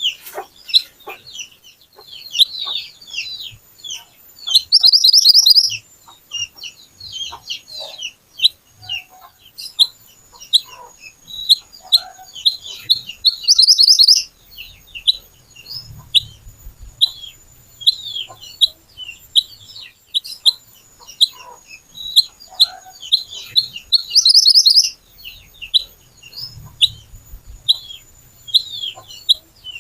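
Mantenan (kuniran) bird singing a fast run of sharp, high chirps. Three loud, harsh trilled bursts break in, about a quarter of the way in, halfway through, and near the end.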